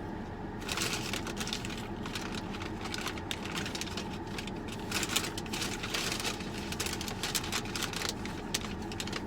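Close eating sounds, crisp crackles and clicks of chewing and handling food packaging, starting about a second in. Underneath is the steady hum of a car engine idling to run the air conditioning.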